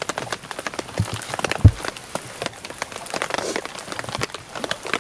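Rain falling on a tarp overhead, a dense steady scatter of drop ticks. One heavy low thump about a second and a half in, with a smaller one just before it.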